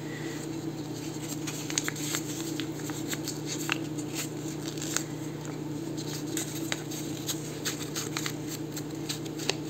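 Scattered light clicks and taps of paper and craft supplies being handled on a work table, over a steady low hum.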